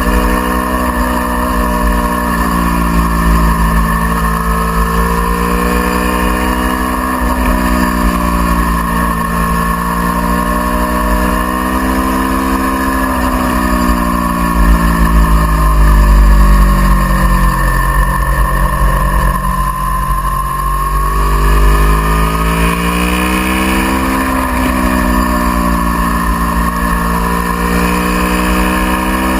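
Aprilia Tuono V4R's 999 cc V4 engine at track speed, heard from on board. Its pitch climbs and drops sharply at each upshift, falls away under braking about halfway through, then rises again on the drive out. Heavy wind rumble on the microphone is loudest around the middle.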